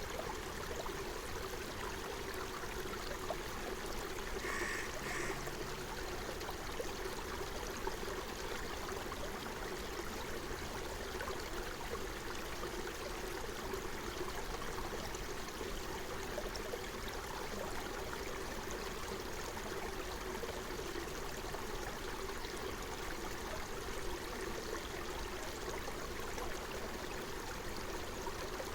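Forest stream flowing steadily, an even rushing and trickling of water. About five seconds in, a bird calls twice briefly.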